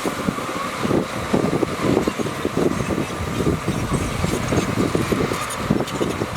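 Diesel engine of heavy earthmoving machinery running, a steady low rumble with an uneven pulsing.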